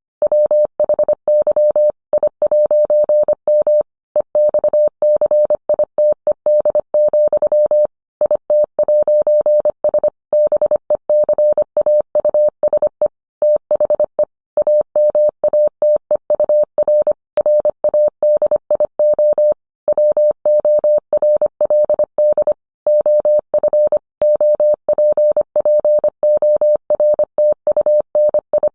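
Morse code sent as a single mid-pitched beep keyed on and off in a fast run of dots and dashes, with short pauses between letters and words.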